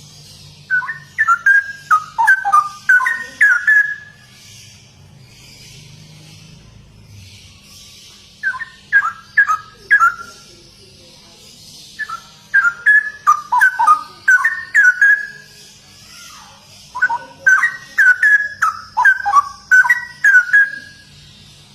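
Straw-headed bulbul (cucak rowo) singing loud, fluty, bubbling phrases. Four bursts of a few seconds each, separated by short pauses, over a faint steady hum.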